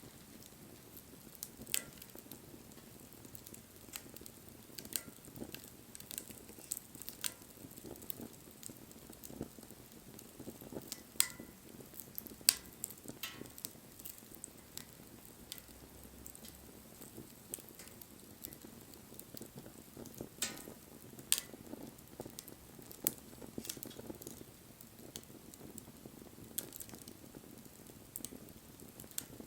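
Wood bonfire crackling: irregular sharp pops and snaps over a low steady hiss, with a few louder snaps near the middle.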